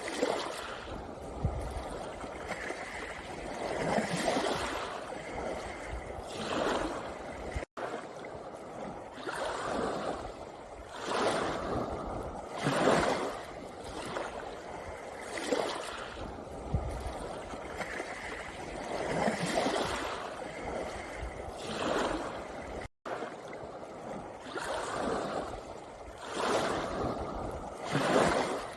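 Small sea waves washing in over a pebble beach, surging and draining away in a repeating rhythm every two to three seconds. The sound drops out for an instant twice.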